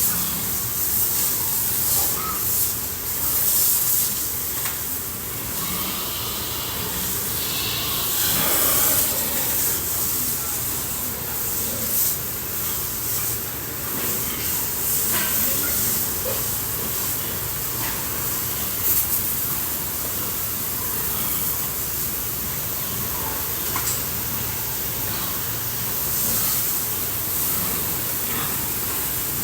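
Water spraying steadily from a hose nozzle, a continuous hiss, as pigs and their pen are washed down.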